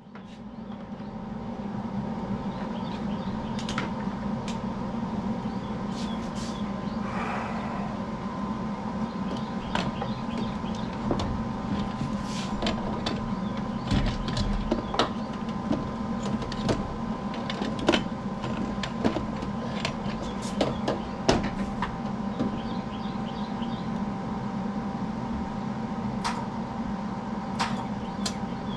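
A steady mechanical hum with many irregular sharp clicks and taps over it.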